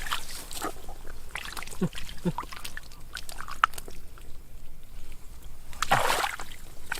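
Water splashing and sloshing in irregular bursts, with scattered short clicks, loudest about six seconds in.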